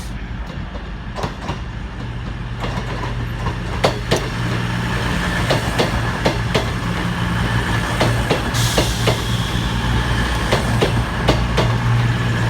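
CrossCountry Class 221 Super Voyager diesel train arriving: a steady diesel engine hum growing slowly louder, with wheels clicking over rail joints and points. A hiss of air starts about eight and a half seconds in.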